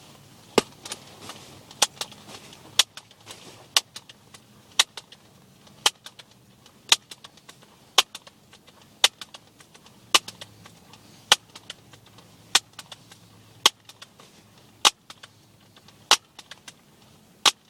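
A sharp click about once a second, each followed by a few fainter clicks, repeated steadily.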